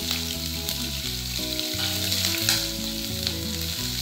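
Chopped green chilli and grated ginger sizzling in hot oil in a nonstick kadai, with a steel spatula stirring and scraping in the pan. Light background music plays underneath.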